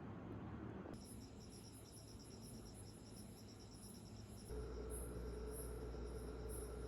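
Insects, crickets by their sound, chirping faintly in a fast pulsing rhythm; a steady low hum joins about four and a half seconds in.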